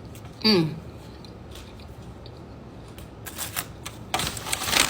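Paper sandwich wrapper rustling and crinkling in two bursts in the second half, after a brief loud tone that falls quickly in pitch about half a second in.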